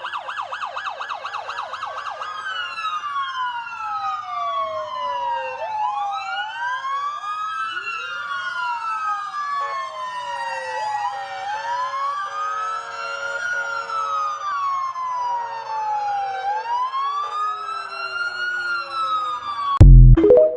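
Several sirens sounding together: a fast yelp for about two seconds, then overlapping slow wails rising and falling out of step with each other. Near the end comes one very loud, brief low blast, and then the sound cuts off.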